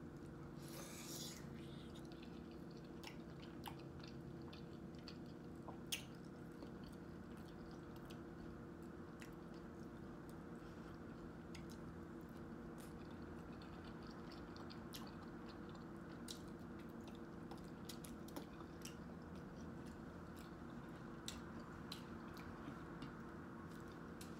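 Close-up chewing and biting by a person eating seafood-boil food by hand: soft, scattered wet mouth clicks and smacks, with a brief louder bite about a second in and a sharper click near six seconds. A steady low hum runs underneath.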